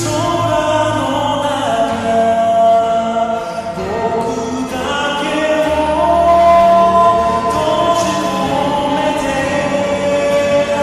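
Slowed-down pop song with heavy reverb: a sung melody of long held notes over sustained backing, the slowing and echo giving the voice a choir-like wash.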